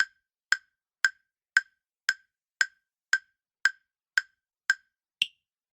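Countdown timer sound effect ticking: ten sharp woodblock-like ticks about two a second, then an eleventh tick at a higher pitch that ends the count.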